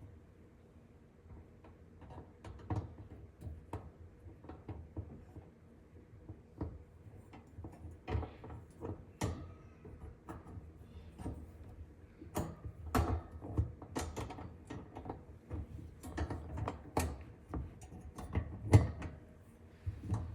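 Dish drying rack parts being handled and fitted together: irregular clicks, taps and knocks, sparse at first and busier and louder from the middle on, with the loudest knock near the end.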